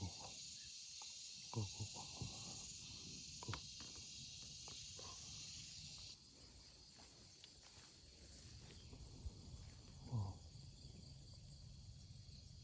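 Steady, high-pitched buzzing of an insect chorus that drops off abruptly about six seconds in, with a few brief rustles and knocks of vegetation being pushed aside.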